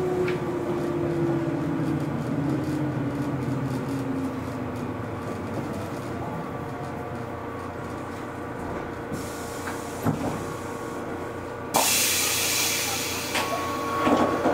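Running sound of a 413 series electric train heard from on board: a steady rumble of wheels on rail with a motor whine that falls in pitch over the first few seconds. About twelve seconds in, a sudden hiss of air starts and lasts about two seconds.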